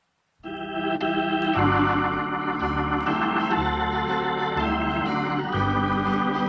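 Near silence, then about half a second in an organ starts playing sustained chords over a bass line that alternates between two low notes about once a second: the instrumental introduction to a country Christmas song.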